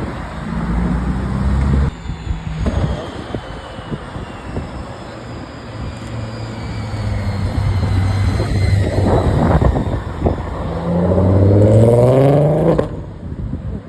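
Modified cars driving past with engines running. Near the end one car revs up hard, its engine note rising sharply, then the sound cuts off abruptly.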